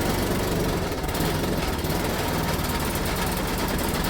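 Four-stroke snowblower engine running steadily just after a cold start, on full choke and near-full throttle.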